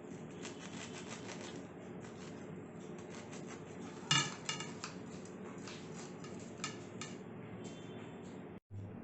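Bread knife sawing through a pan-toasted sandwich: a run of short, crisp crunching strokes, with a sharp ringing clink of metal about four seconds in and a smaller one near seven seconds. A steady low hum runs underneath.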